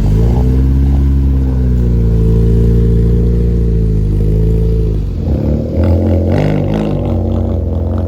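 Car engine revving up and held at raised revs for several seconds, then dropping back to a rougher, uneven note for the last few seconds.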